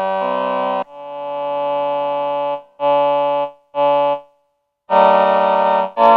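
Behringer VC340's Human Voice choir section playing a run of held keyboard chords. There are about five chords, one fading in slowly, two short ones, and a brief gap before the last.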